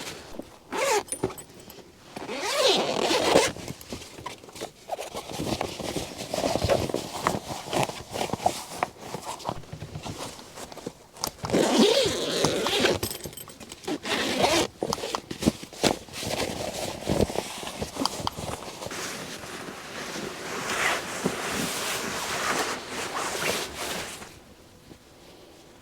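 Zippers being drawn open and shut amid rustling fabric, with small clicks and knocks, stopping near the end.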